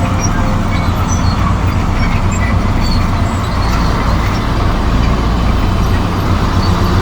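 Komatsu D58E crawler bulldozer's diesel engine running steadily and loudly as the machine pushes soil.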